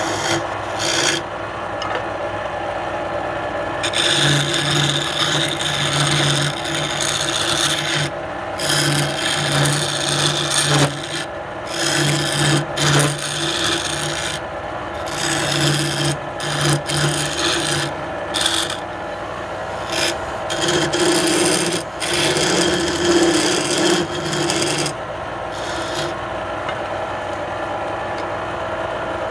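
Wood lathe running with a steady hum while a turning tool cuts the spinning wood in repeated passes. The result is a rough scraping hiss that starts and stops every second or two.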